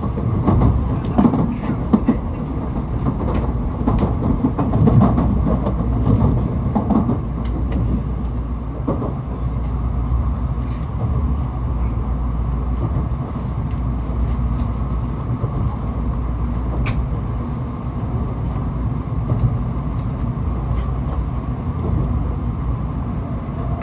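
Cabin noise of a Tokaido Shinkansen train running: a steady low rumble with scattered clicks and knocks from the track, busier in the first seven seconds or so, then settling to an even drone.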